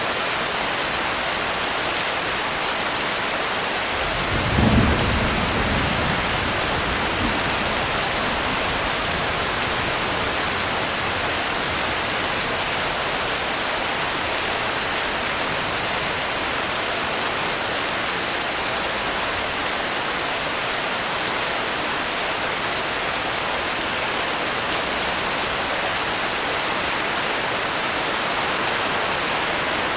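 Steady, heavy rainfall hissing evenly, with a single low roll of thunder that swells about four seconds in and fades away over a few seconds.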